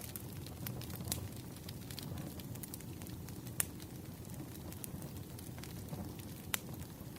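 Firewood burning: a steady low rumble of flames with irregular sharp crackles and pops, two of them louder, about three and a half and six and a half seconds in.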